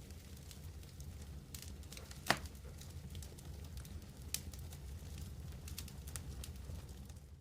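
Wood campfire crackling, with scattered small pops and one sharper pop about two seconds in, over a steady low rumble.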